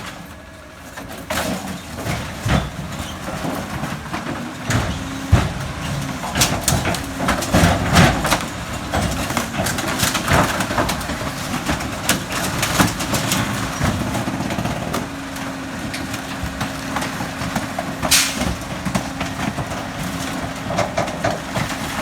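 McNeilus rear-loader garbage truck running while its packer crushes bulky waste, with many irregular cracks, crunches and knocks of items breaking and a loud sharp crack near the end. A steady engine and hydraulic hum continues under it.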